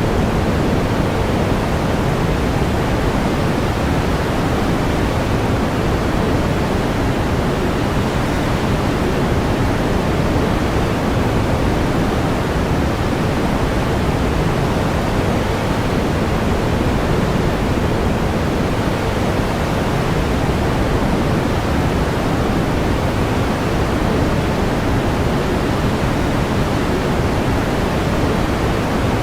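Steady synthetic pink noise: an even, unchanging hiss weighted toward the low end, with no events or changes.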